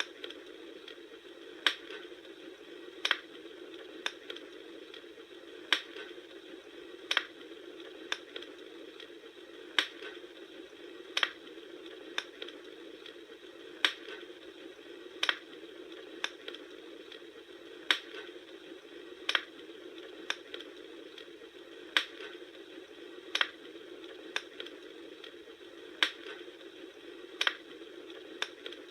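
Campfire crackling: sharp pops come at a fairly even pace, about one every second and a half, over a steady low hiss of burning.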